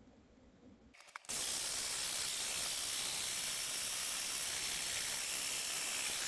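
Yamaha GP HO engine spun over on its starter motor, a loud steady hissing whir that starts abruptly about a second in, while the engine is cranked to prime the oil system up to the camshafts.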